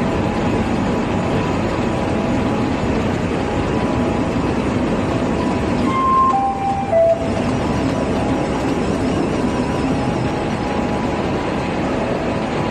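Steady running din of a diaper production line's recycled pulp milling and feeding machinery. About six seconds in, three short beeps step down in pitch one after another.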